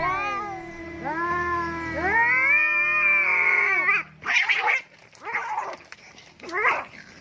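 Tomcats caterwauling in a standoff over a female: long, drawn-out, wavering yowls that rise and fall, then about four seconds in three short, harsh outbursts about a second apart.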